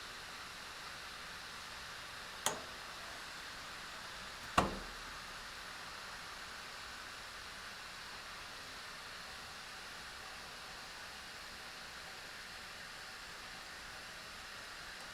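Steady hiss inside a 113 series electric train car, broken by two sharp knocks: one a couple of seconds in and a louder one about two seconds later.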